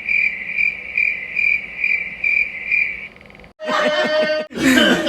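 A cricket chirping in an even, high-pitched pulse, about two and a half chirps a second, that stops about three seconds in; a short burst of voices follows near the end.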